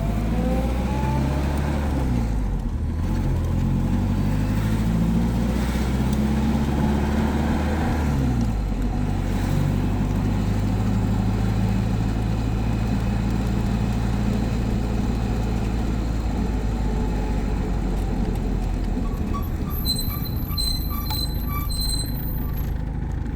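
An old car's engine running on the move, its note shifting up and down through gear changes in the first several seconds, then settling to a steady drone. Near the end comes a quick run of short, high, evenly spaced squeaks from the brakes, which are a bit squeaky, as the car slows.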